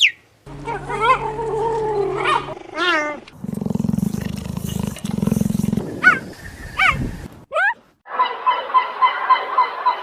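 A string of different animal calls cut one after another: pitched, bending cries, then a low, rough pulsing growl in two stretches around the middle. From about eight seconds in, a turkey gobbles in a rapid, even run of calls.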